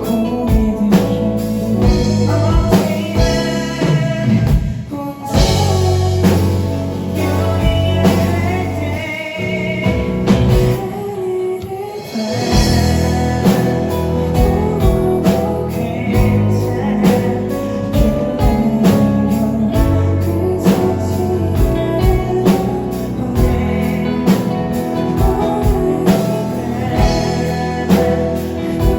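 Live band performing a song: a singer over guitar and drum kit.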